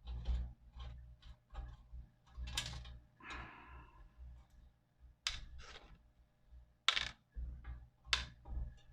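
Small metal parts and tools of a tin-and-brass toy steam engine being handled during dismantling: scattered irregular clicks and light knocks, with a short scrape about three seconds in.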